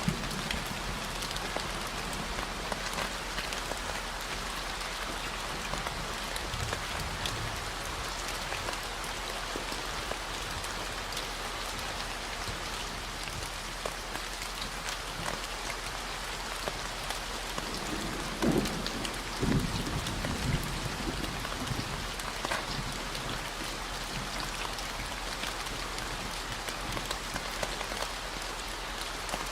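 Steady rain falling, mixed with a constant very low 40 Hz gamma-wave tone. A couple of brief low rumbles come about two-thirds of the way through.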